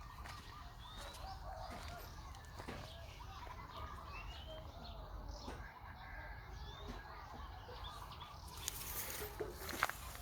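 Many short high chirping animal calls over a low steady rumble, with rustling and crackling near the end.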